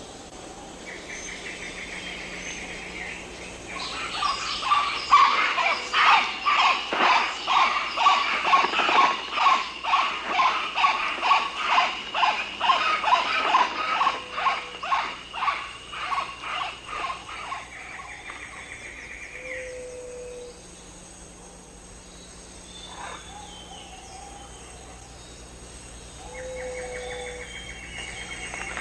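Rainforest ambience: an animal gives a long run of loud, rhythmic calls, about two a second, that fade out after some fifteen seconds. Short insect-like trills come and go around it.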